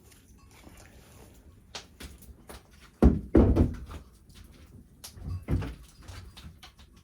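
Thumps and knocks: two heavy thumps close together about three seconds in and two more about two seconds later, with light clicks and taps between.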